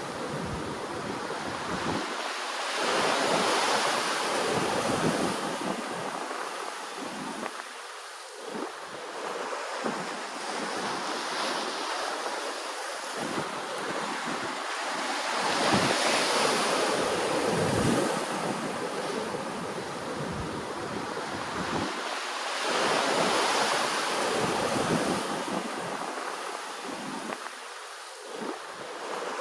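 Ocean surf: waves breaking and washing in, the rush of water swelling and falling back every several seconds, loudest around a quarter, half and three-quarters of the way through.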